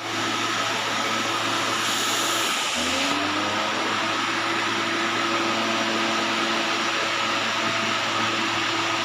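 Waterfall, its water falling and rushing in a loud, steady noise.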